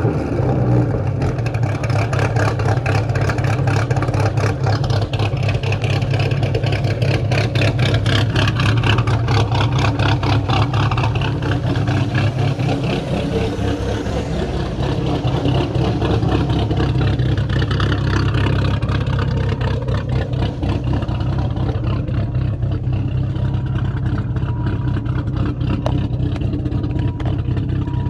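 Dodge Viper GTS 8.0-litre V10 idling loudly through headers and straight 4-inch side pipes with no cats, a steady, even pulse.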